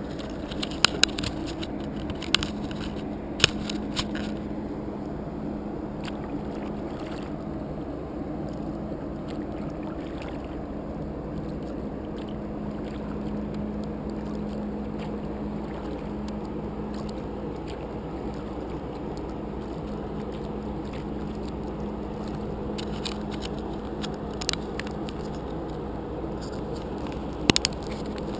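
Steady low hum of a large ferry's machinery, holding one constant low tone over a bed of rumble. A few sharp knocks come in the first few seconds and again near the end.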